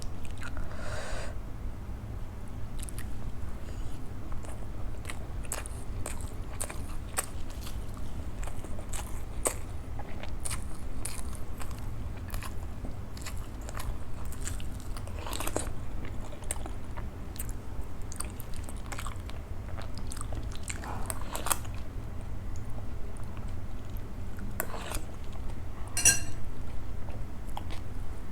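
Close-miked eating sounds of someone chewing idli with sambhar and chutney: chewing and mouth noises with frequent short, sharp clicks, over a steady low hum.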